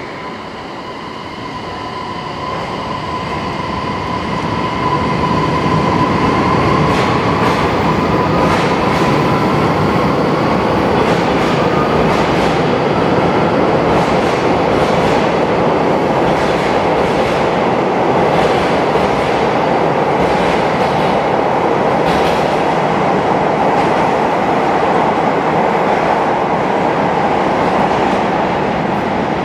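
A train moving along a station platform, growing louder over the first several seconds and then holding steady, with a thin whine that rises slightly in pitch and fades, and the wheels clicking over rail joints.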